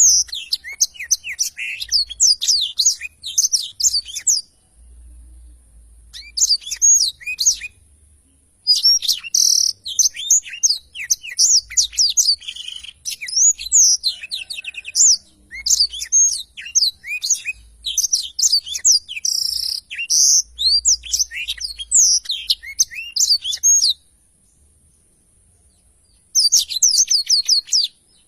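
Blackthroat (black-throated canary) in full song: long runs of rapid, high twittering and trilled notes, broken by brief pauses and a longer gap near the end.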